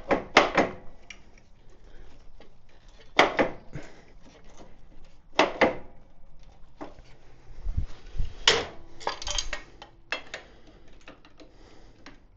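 Sharp clicks and knocks of parts and tools being handled while working components loose on a motorcycle, coming at irregular moments, with a few dull thumps a little past the middle.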